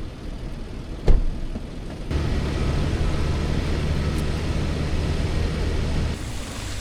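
A car engine running at a steady pitch for about four seconds, after a single thump about a second in.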